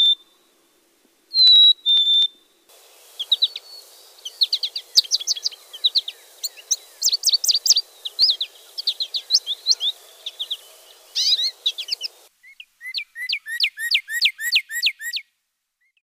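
Recorded bird song: two clear whistled notes, then a long passage of rapid high chirps and slurred notes over a faint hiss, ending in a run of about a dozen evenly spaced notes that each slide downward.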